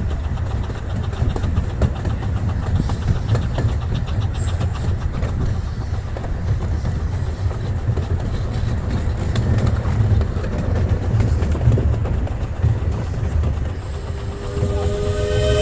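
Miniature steam train running along the track, heard from aboard: a steady low rumble of wheels on rail with clicking rail joints. About a second before the end a steam locomotive's chime whistle starts to blow, several notes at once.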